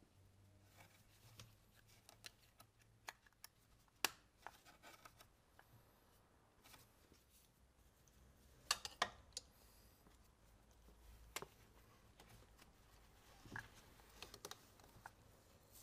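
Scattered light clicks and taps from hand tools and parts being handled at low level. There are a few sharper clicks: one about four seconds in, a quick pair around nine seconds, and another near eleven seconds.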